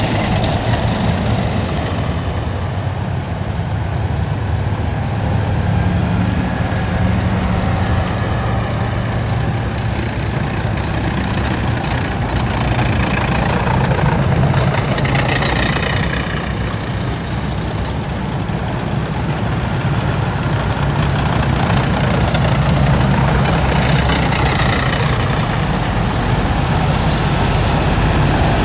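Heavy military vehicles driving past in a column, their large diesel engines rumbling steadily, with brief squeals and hisses that rise above the engines now and then.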